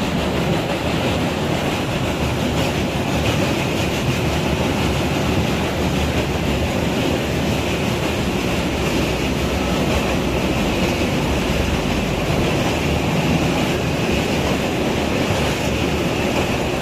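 Meter-gauge passenger train running at speed, a steady rumble and rush of wheels on rails heard from inside the coach.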